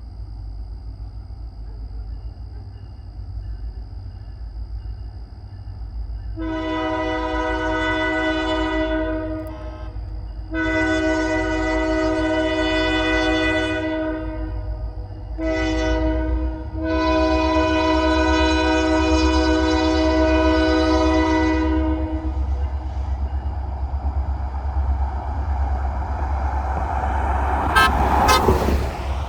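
Kiamichi Railroad locomotive's multi-chime air horn sounding the grade-crossing signal: two long blasts, a short one, and a final long one, over a low steady rumble. A loud rush follows near the end as the train reaches the crossing.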